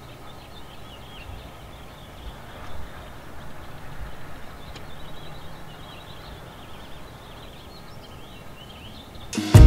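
Small birds chirping on and off over a steady low outdoor rumble in falling snow. Music comes in loudly near the end.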